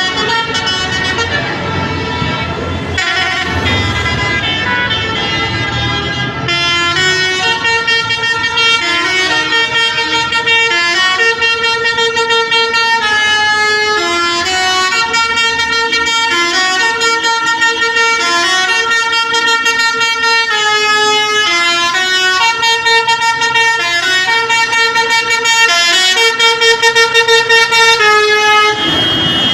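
A vehicle's multi-tone musical horn playing a tune of held notes that step up and down in pitch, starting a few seconds in, after some engine rumble.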